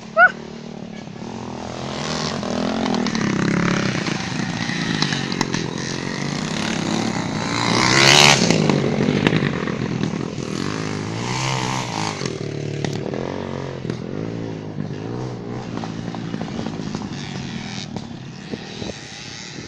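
Street motorcycles racing on a dirt track, their engines revving up and down as they pass, loudest as one goes by close about eight seconds in. A short, sharp high chirp sounds right at the start.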